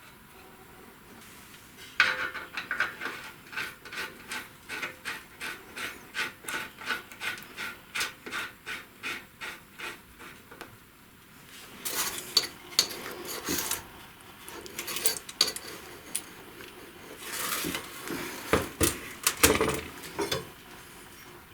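Hand file scraping on metal in steady back-and-forth strokes, about two to three a second. Later come two bursts of quicker, harsher scraping with metallic clinks.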